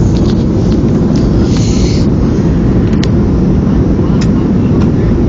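Steady cabin roar inside a Boeing 737-300 in flight: the deep, even rumble of its CFM56 turbofan engines and airflow, with a few faint clicks and a brief hiss over it.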